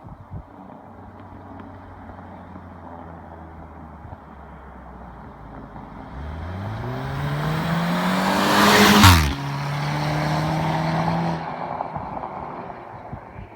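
Audi A5 with a custom exhaust idling, then revved once: the pitch climbs for about three seconds, cuts off with a sharp burst, and drops back. The engine holds a steady note for about two seconds before settling to idle.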